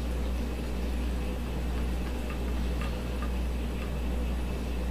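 Steady low hum with a few faint, light clicks scattered through it.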